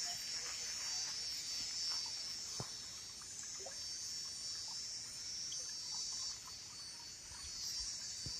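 Insects, likely crickets, trilling steadily in a high-pitched chorus, with a few faint ticks.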